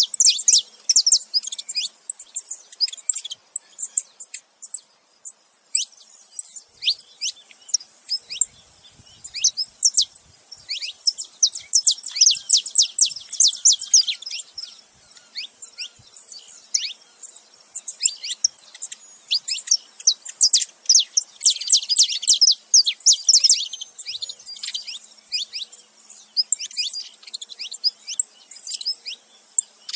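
A male and a female saffron finch chirping, dense runs of rapid, high, short notes in bouts broken by brief pauses.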